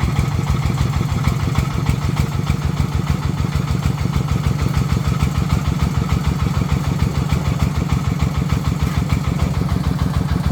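Single-cylinder diesel engine of a farm truck running steadily, with an even, rapid low chugging beat.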